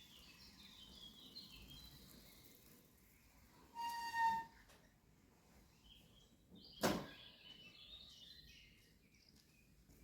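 Small birds singing in short falling phrases, with a brief clear whistled note about four seconds in and a single sharp knock just before seven seconds.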